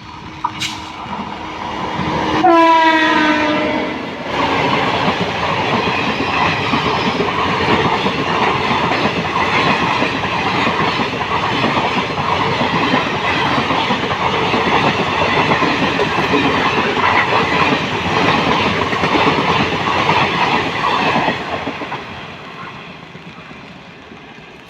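A passing Indian Railways train hauled by an electric locomotive. The horn sounds once, for about a second and a half, dropping slightly in pitch as it goes by. The train then runs past for about seventeen seconds in a loud, dense rush of wheels on rails, which fades away near the end.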